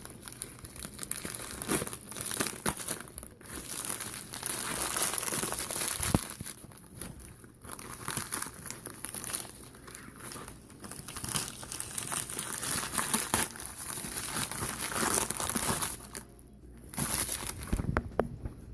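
Tightly wrapped parcel packaging crinkling and tearing as it is worked and ripped open by hand, in irregular bursts with short pauses.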